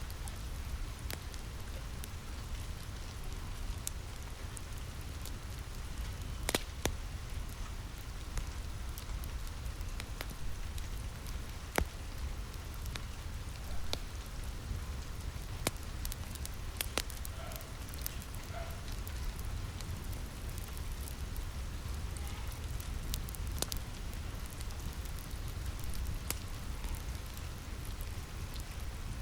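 Steady rain on a roof with a low rumble, mixed with a wood fire crackling: sharp pops at irregular intervals, a few louder than the rest.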